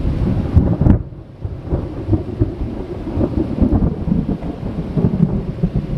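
Loud, low rumble of rolling thunder from a nearby thunderstorm, easing briefly about a second in and then rumbling on.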